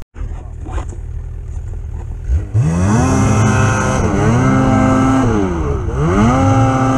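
Snowmobile engine running low for about two seconds, then revved up hard and held at high revs, easing off and climbing again twice, for three high-rev pulls in all.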